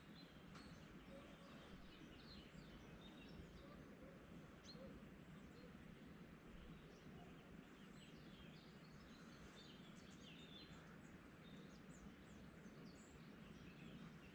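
Faint songbirds chirping at sunrise: many short, high chirps and twitters, busiest in the middle, over a steady low background hum.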